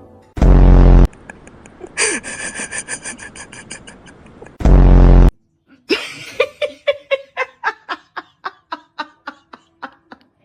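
Edited-in comedy sound effects: two short, very loud buzzy blasts, each followed by fast repeated chattering, laugh-like pulses, the second run slowing down toward the end.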